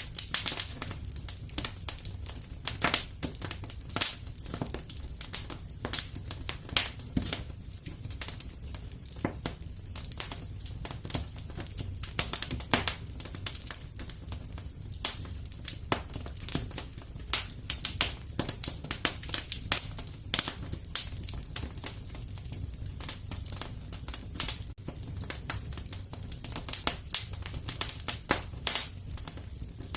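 Wood fire crackling in a fireplace: a steady run of irregular sharp pops and snaps over a low, even rumble.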